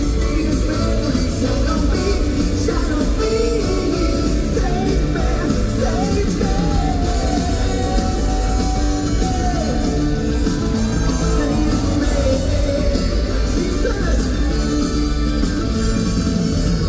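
Live funk-rock band playing through arena PA speakers, loud and steady, with a lead line sliding up and down in pitch over the band.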